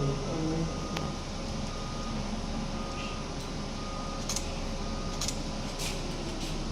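Steady mechanical hum of running machinery with a faint whine, and a few short sharp clicks scattered through it.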